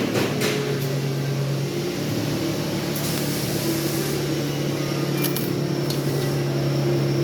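Welding machine running with a steady hum and an even hiss over it, with a few faint clicks.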